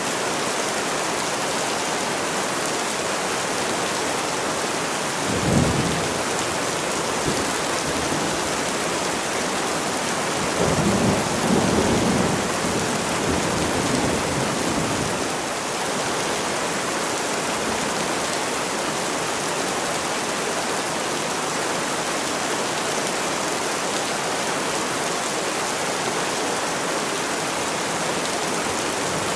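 Steady heavy rain, with thunder rumbling twice: a short low rumble about five seconds in and a longer one between about ten and fifteen seconds.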